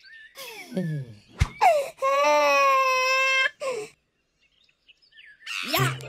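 A cartoon character's crying wail: a few falling whimpers, a sharp click, then one long held cry of about a second and a half ending in a short falling sob. Music comes back in near the end.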